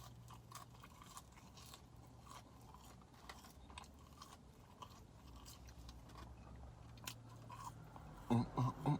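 Mouth sounds of someone chewing and crunching fast food: faint wet clicks and crunches over a steady low hum. Near the end, the hum stops and a loud run of rapid, evenly spaced pulses begins.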